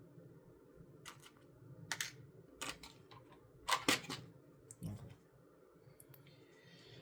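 Small plastic LEGO pieces clicking and clacking as they are handled and pressed together, about half a dozen sharp clicks at irregular intervals, loudest in a quick cluster about four seconds in.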